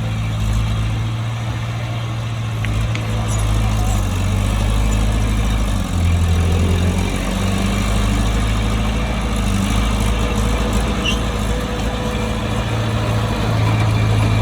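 Heavy diesel engine of earthmoving machinery running steadily under work. About six seconds in, the engine note dips lower for a second or so, then returns.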